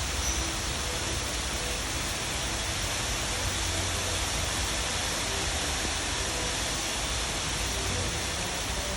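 Small hail falling steadily, an even, dense hiss of many small pellets that keeps up without let-up.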